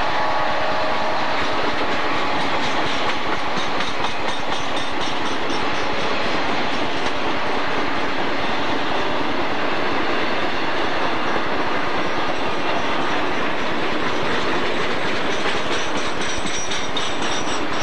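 Double-stack container train's well cars rolling past close by: a steady rumble of steel wheels on the rails with clickety-clack clicking from the trucks.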